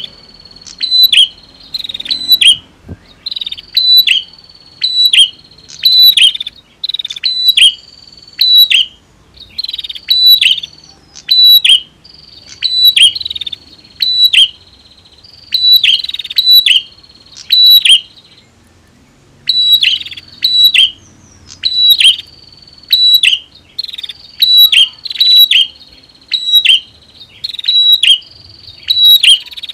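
Bar-winged prinias (prenjak), male and female, calling: loud, sharp, high chirps in quick groups of two or three, repeated about once a second over a thin, steady high trill, with a brief pause a little past halfway.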